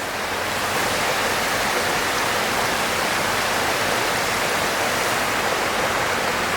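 Waterfall: a steady rush of falling water that fades in over the first second.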